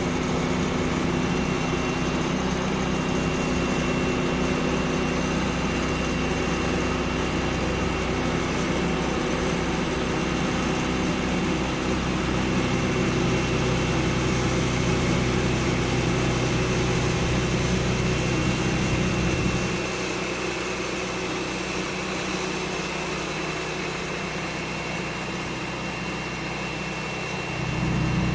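Sawmill engine running steadily. Its low hum drops away for several seconds near the end, then comes back.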